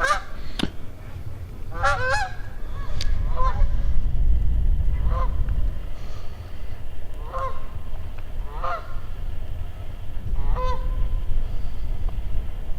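Canada geese honking: single and doubled honks every second or two, over a steady low rumble.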